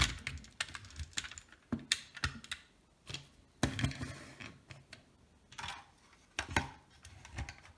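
Toy cars being handled: irregular small clicks and knocks of plastic and metal pieces being picked up and set down.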